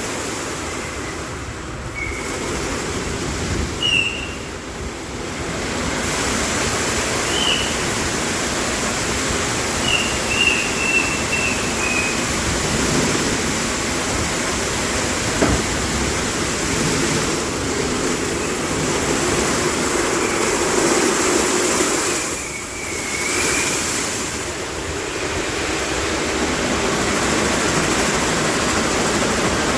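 Automatic car wash in operation: a steady rush of spraying water and machinery over the car, with a few short high squeaks.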